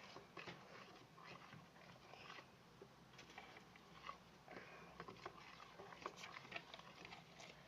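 Faint handling noises: scattered small clicks and brief rustles as sticky, gel-like homemade slime and paper are handled.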